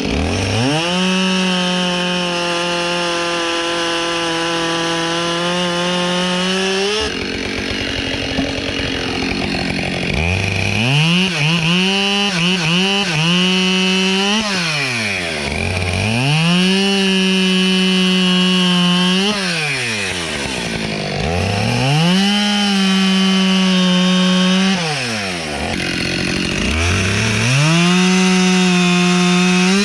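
Husqvarna two-stroke chainsaw bucking dry oak logs into firewood rounds. It revs up to full throttle and holds there through each cut, then drops back toward idle. This happens about five times, with the longest cut at the start.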